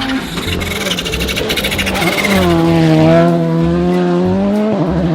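Rally car engine revving, climbing and then holding a steady high note for about two seconds before cutting off near the end, over background music with a regular bass beat.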